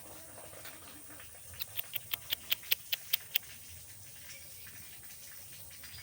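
An animal's rapid run of short, high chirps, about ten of them in under two seconds, starting about a second and a half in.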